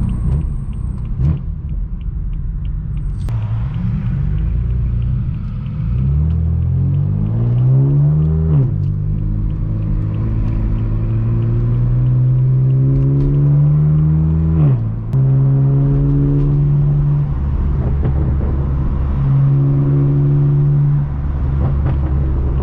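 Straight-piped BMW M4 F82's twin-turbo inline-six exhaust pulling through the gears. The revs climb twice, each climb ending in an upshift with a sudden drop in pitch, and the engine then holds steady revs.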